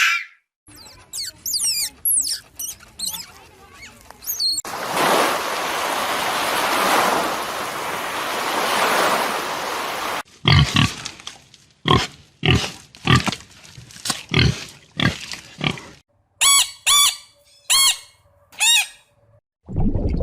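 A run of different animal calls, one clip after another: high, quick chirping calls first, then about five seconds of rough, noisy sound, then a string of short calls about twice a second, and near the end a few high, arching cries.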